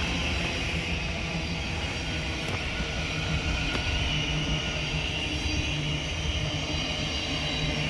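Thameslink Class 700 electric multiple unit at the platform, giving a steady electric hum and rumble.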